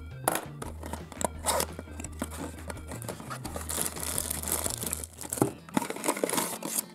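A small cardboard candy box being torn open, followed by a cellophane wrapper rustling and crinkling as it is pulled out, with many sharp crackles. Background music plays underneath.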